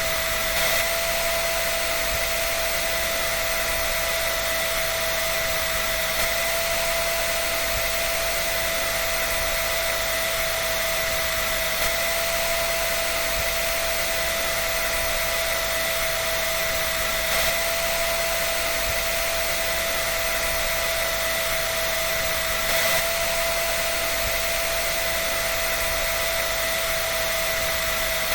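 Hair dryer running steadily: a continuous rush of air with a steady motor whine.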